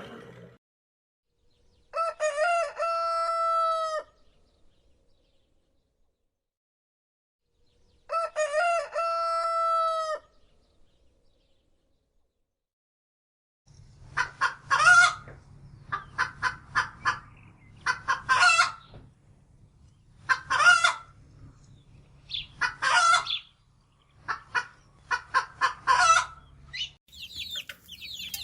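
Rooster crowing twice, each crow a long held call, then a hen clucking in a long run of short repeated calls over a low steady hum.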